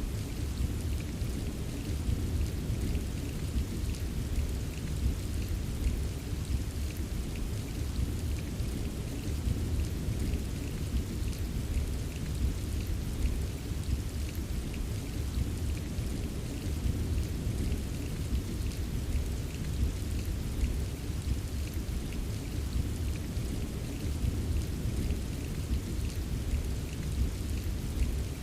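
Steady rain with many small raindrop ticks, over a continuous deep low rumble with no distinct thunderclap.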